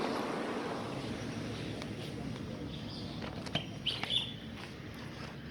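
A passing vehicle fades away, leaving outdoor background, with a few short bird chirps about three to four seconds in.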